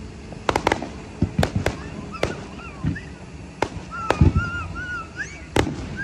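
Aerial fireworks going off: a string of sharp cracks from bursting shells, some in quick pairs, with a deeper thud about four seconds in.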